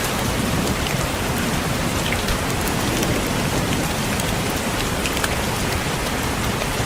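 Steady rain with raindrops tapping on a window: a continuous even hiss with scattered small drop ticks.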